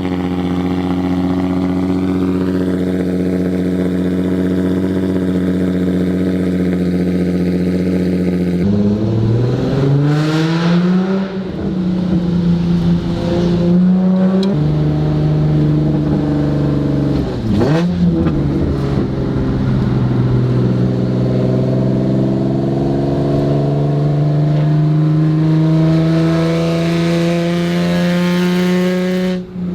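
Nissan 350Z's VQ35HR V6 through a full titanium Tomei Expreme Ti exhaust with test pipes (cat delete), very loud. It holds a steady drone for about nine seconds, then accelerates with the pitch rising, drops partway through, and climbs steadily again toward the end.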